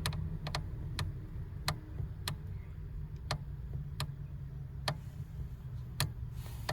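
Lada Granta clutch pedal mechanism clicking as the pedal is pressed and released: sharp single clicks at uneven gaps of about half a second to a second, over a low steady hum. The noise persists even though the pivots have been sprayed with silicone lubricant.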